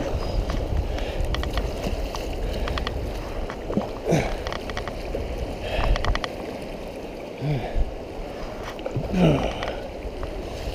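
Kayak paddled hard through fast river water: paddle splashes and clicks and knocks against the boat over rushing water and wind buffeting the microphone, with a few brief vocal sounds.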